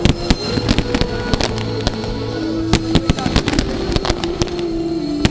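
Fireworks popping and crackling in quick, irregular cracks, over show music with long held notes.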